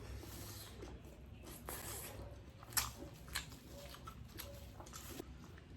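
People chewing and eating, with wet mouth sounds and several sharp short clicks scattered through.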